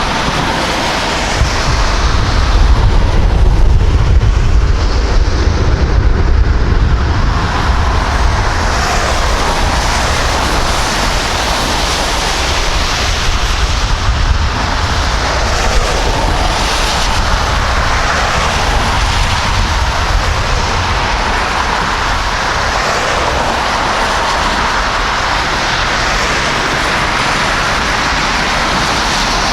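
Jet airliner's engines, a loud steady noise with a deep rumble that is heaviest in the first several seconds.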